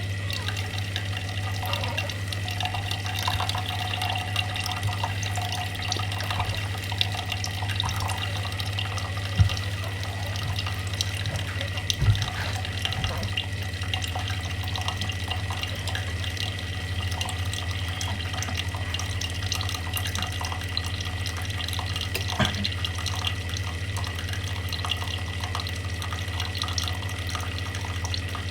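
Watery trickling and dripping with many small ticks over a steady low hum, with a few louder knocks, about a third of the way in and again later.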